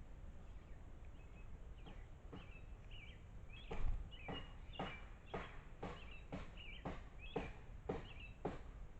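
Small birds chirping with short high calls over a run of sharp taps, roughly two a second, with a louder thump about four seconds in.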